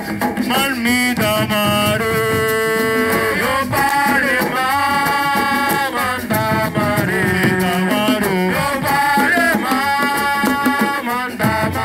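A voice singing long, gliding, ornamented notes over steady drumming.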